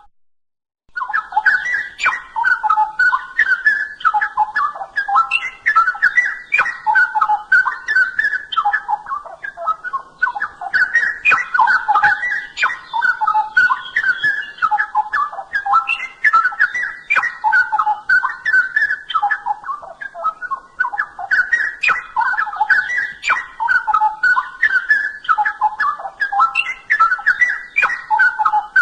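Straw-headed bulbul (cucak rowo) singing a loud, rich song of rapid whistled and warbled phrases, one after another without pause, after a gap of under a second at the very start.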